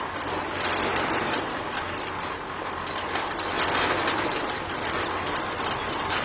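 Small geared electric motor of a DIY toy tractor running steadily, with a rattling drivetrain and rapid clicks.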